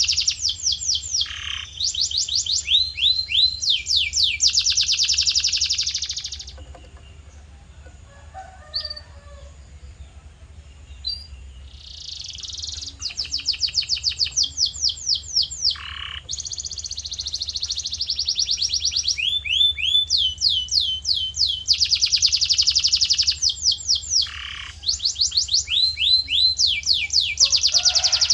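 Male domestic canary singing in long runs of fast, repeated high trills, with a pause of several seconds about a quarter of the way in before the song resumes.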